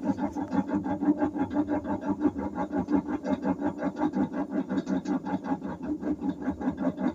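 Whirlpool washing machine making a rhythmic rubbing, scraping noise, about six pulses a second: the noise it makes when it stops.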